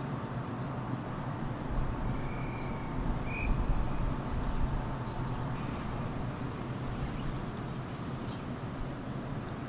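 Steady low outdoor rumble, with a short bird chirp two to three seconds in.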